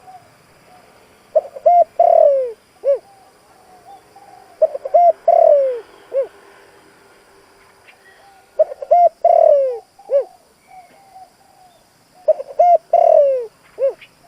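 Spotted dove (cu gáy) singing its cooing song: four phrases about every three and a half seconds, each a few short coos, then a long falling coo and a short last note.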